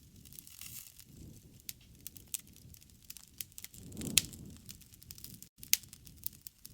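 Wood fire crackling, with irregular sharp pops over a soft low rush of flame; the rush swells about four seconds in, with the loudest pop just after.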